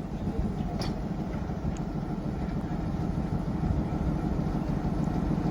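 A train's steady low rumble on the rails, slowly growing louder, with a single sharp click about a second in.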